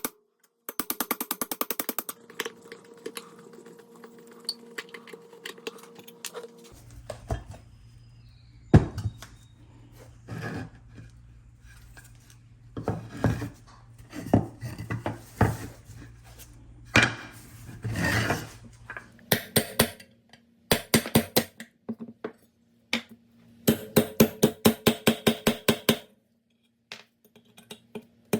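Hand tools and metal parts being handled: scattered knocks, thuds and clinks, with bursts of rapid, even ticking near the start, about two-thirds in and shortly before the end. A low steady hum runs under them from about a quarter in to about two-thirds in.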